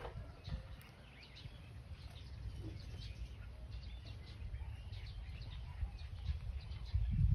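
Birds chirping, with many short calls scattered throughout, over a low rumbling noise that grows louder near the end.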